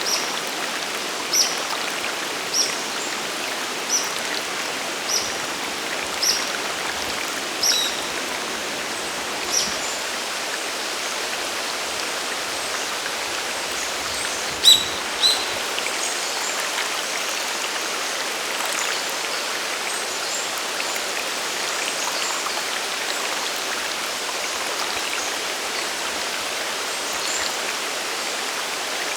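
Steady rushing water of a mountain waterfall and stream. Over it a bird repeats a short high note about once a second for the first ten seconds, then gives two louder notes about halfway through.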